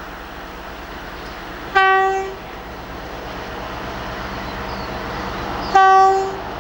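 Horn of a British Rail Class 60 diesel locomotive, sounding two short blasts on the same note about four seconds apart, over the rumble of the train that grows slowly louder as it nears.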